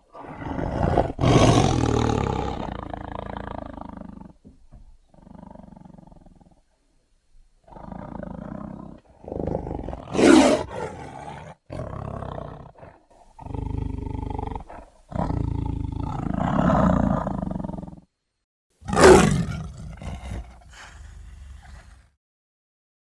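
A string of animal roar sound effects, one after another, about eight in all. The first is the longest, at about four seconds, and the rest are shorter, with brief gaps between them.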